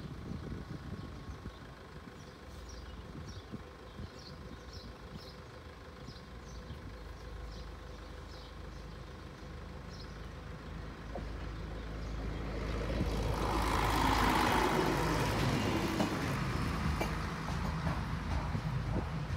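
A train passing over the level crossing: a low rumble builds, swells to its loudest about two-thirds of the way through, then slowly eases off. Birds chirp faintly in the first half.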